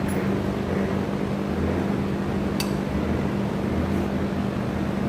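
Steady machine hum with a constant low pitch, like a fan or air-conditioning unit running, with one short light click about two and a half seconds in.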